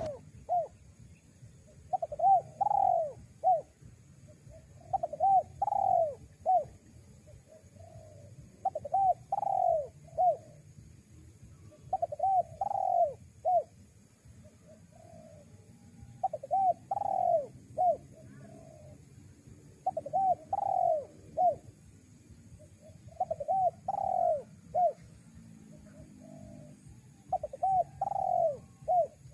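Spotted dove (tekukur) cooing: a repeated phrase of a few quick coo notes with one longer coo, given about eight times, roughly every four seconds.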